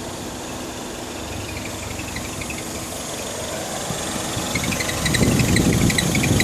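2009 MINI Cooper S running, with short high-pitched squeaks from the right front, passenger side. The squeaks come scattered at first, then thick and fast in the last couple of seconds as a low rumble grows louder.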